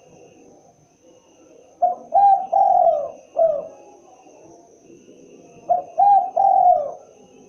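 Spotted dove (tekukur) cooing: two phrases of three or four coos, a few seconds apart. In each phrase a longer coo slides down in pitch.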